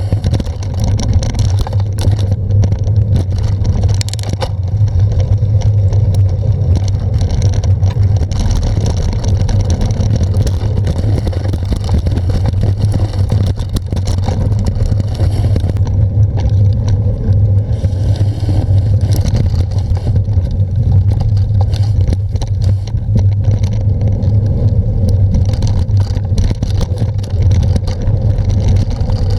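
Steady low rumble of wind and road noise on a camera's microphone while riding a bicycle.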